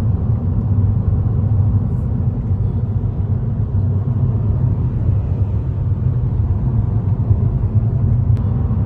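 Steady low rumble of a moving car heard from inside the cabin: road and engine noise while driving at steady speed.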